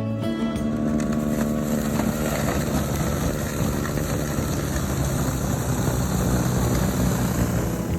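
An engine running steadily: a low hum with a noisy wash and a high whine over it.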